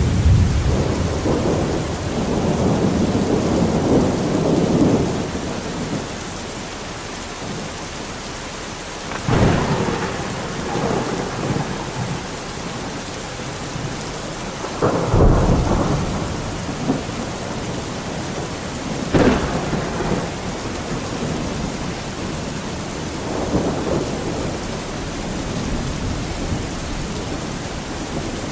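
Steady rain during a thunderstorm, with rolling thunder in the first few seconds and sharp thunderclaps about nine, fifteen and nineteen seconds in.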